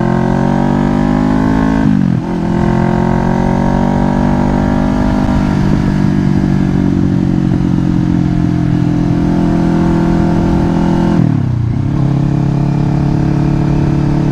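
2024 Kawasaki Ninja 500's parallel-twin engine under way, its note climbing and then dropping sharply as it shifts up, about two seconds in and again near the end, with a steady run between. Low wind rumble sits underneath.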